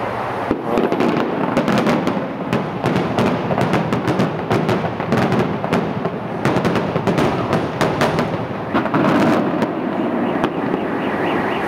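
Fireworks going off in a rapid, dense string of bangs and crackles that starts about half a second in and stops about ten and a half seconds in.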